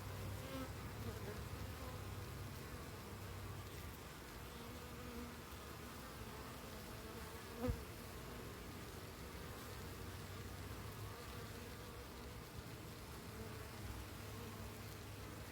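Honeybees buzzing steadily as a crowd at a hive entrance narrowed to its smallest opening by the entrance reducer, a sign the colony is cramped and too crowded. A single short knock about eight seconds in.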